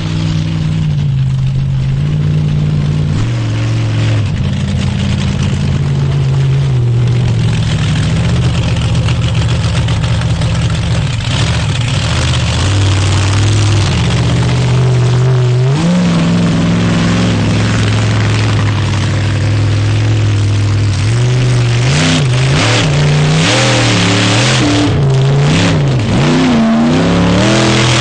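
Monster truck engine running hard, held at steady revs that step up and down every few seconds, then revved quickly up and down over and over near the end.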